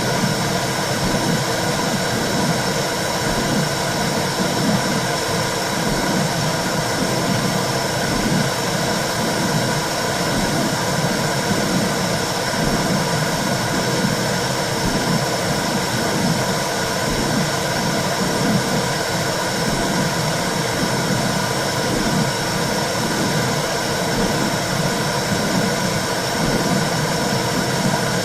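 Womb sound for soothing a baby: a steady whooshing noise with a low, rhythmic pulse like a heartbeat, about once a second.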